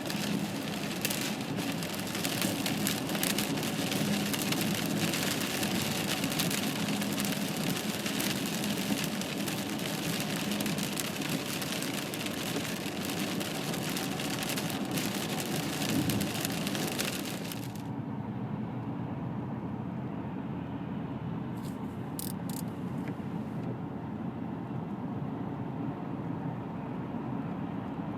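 Steady road-traffic noise, a continuous rush of vehicles and tyres. About 18 s in it changes abruptly to a duller, quieter rumble as its hiss drops away.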